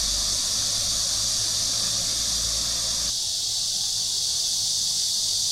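Steady high-pitched buzzing of an insect chorus. A low rumble beneath it stops abruptly about three seconds in.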